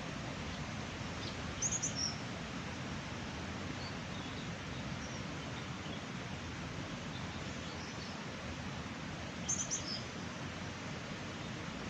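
Small birds chirping, a quick run of high chirps about two seconds in and another near ten seconds, with a few faint chirps between, over a steady rushing noise.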